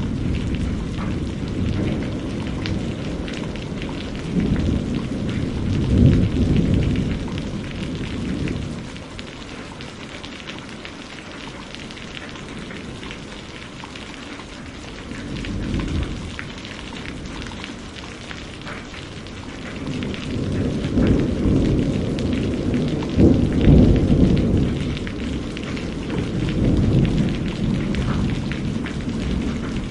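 Steady rain pattering, with deep rolls of thunder that swell and fade: a long rumble in the first several seconds, a short one around halfway, and heavier peals through the last third.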